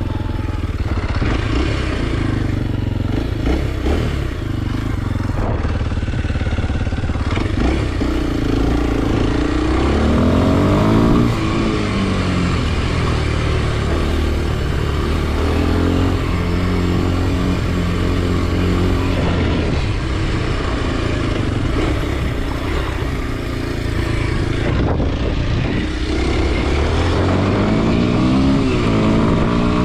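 Kawasaki KLX 230 SM's single-cylinder four-stroke engine under way, revving up and easing off repeatedly as the bike is ridden, with the pitch climbing sharply about a third of the way in and again near the end.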